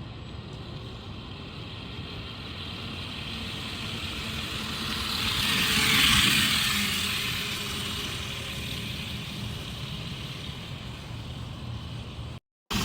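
Razor MX650 36V electric dirt bike riding past. Its whirring noise swells to a peak about halfway through, then fades away.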